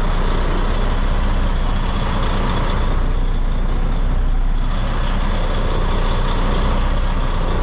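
Semi-truck's diesel engine running steadily at low revs while the truck reverses slowly, with a broad rush of noise over it.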